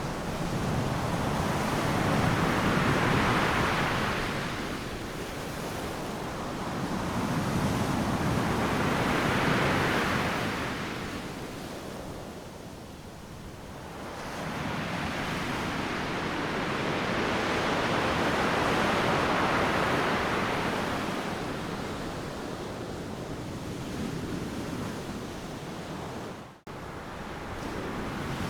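Ocean surf on a beach: waves breaking and washing in three slow surges, each swelling and ebbing over several seconds. Near the end the sound drops out sharply for a split second.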